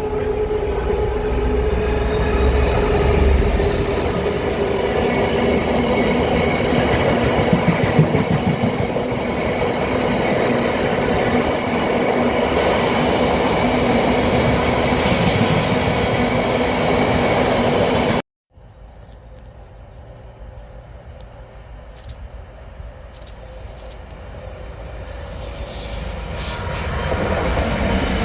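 A train passing close by, loud and steady, with a few held tones in its running noise. About eighteen seconds in the sound cuts off abruptly. Then a quieter train sound builds up, getting louder toward the end as another train approaches.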